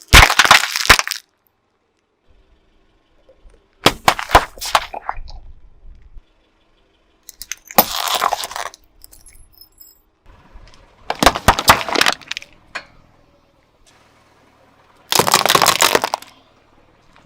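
A car tyre rolling over and crushing brittle objects: five separate crackling crunches, each about a second long, a few seconds apart.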